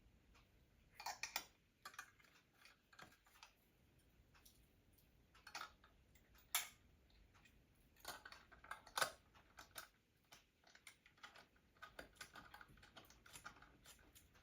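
Faint, irregular metallic clicks and clinks of a shackle and spring balancer being handled and hooked up, a few of them ringing briefly.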